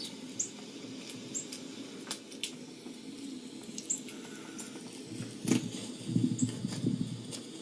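Small birds chirping: a few brief, very high chirps spaced out over several seconds. Low rustling and a few knocks come in the second half.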